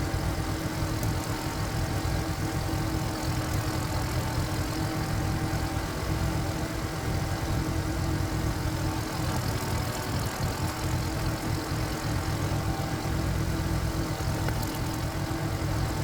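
Walk-behind power tiller's single-cylinder diesel engine running steadily at an even speed, with no change in load.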